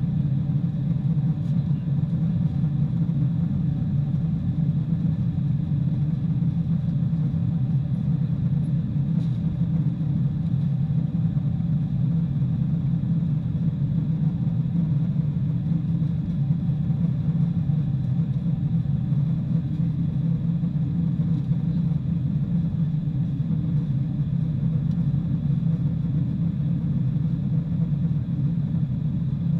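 Boeing 747-400 cabin noise: a steady low rumble of engines and airflow with a few faint steady tones above it, unchanging throughout.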